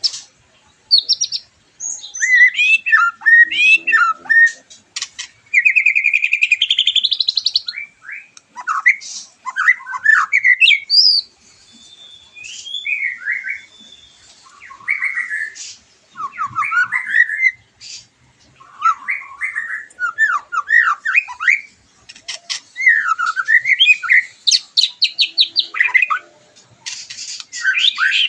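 White-rumped shama singing: a fast, varied run of whistled phrases, sweeping notes and short rattling trills, broken by brief pauses between phrases.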